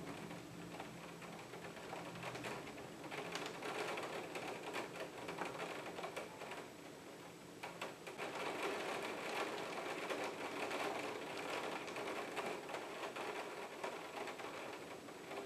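Rain falling, with fast, irregular ticking of raindrops striking the window glass. A low rumble of thunder fades out in the first moments.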